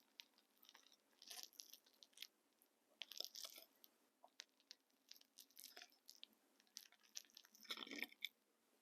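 Faint close-miked eating sounds: soft chewing and mouth clicks come in about four short bouts as the moist microwave banana-cocoa cake is tasted.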